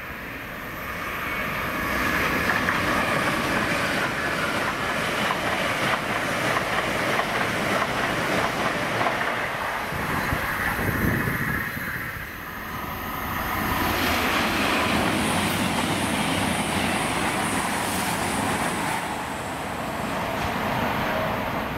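A train passing along the tracks. Its running noise swells up about two seconds in, dips briefly a little past halfway, swells again, then eases off near the end.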